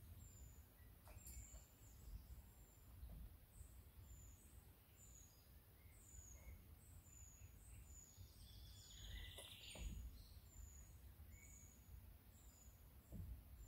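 Near silence with faint birds chirping: a thin high chirp repeated about twice a second, and a brief twittering call about nine seconds in.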